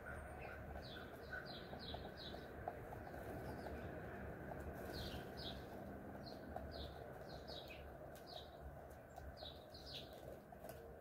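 Small birds chirping: short, high, downward-slurred notes, often two or three in quick succession, repeating through the whole stretch over faint background noise.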